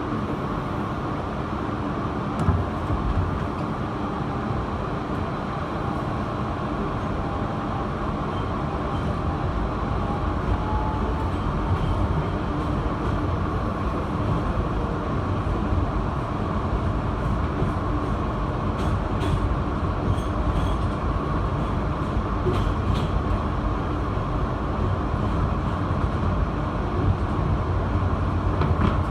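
Inside an R160B Siemens subway car under way: steady rumble of the wheels and running gear on the track, slowly growing louder, with a faint rising whine about ten seconds in.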